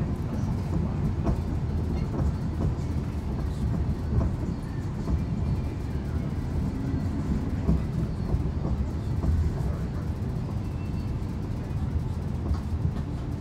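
Chiltern Railways diesel train running at speed, heard from inside the passenger carriage: a steady low rumble with scattered clicks and knocks from the wheels on the track.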